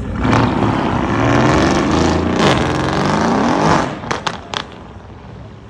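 Sports car engine revving hard, its pitch dipping and climbing again about midway, then the throttle drops off with a few sharp exhaust pops about four seconds in.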